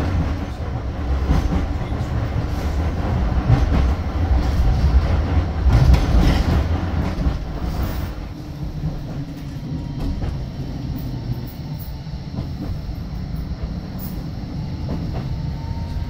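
Electric tram running on its rails, heard from inside the car: a steady low rumble of wheels with rattles and clicks. It is louder for the first half and eases down about halfway through, with a faint rising motor whine near the end.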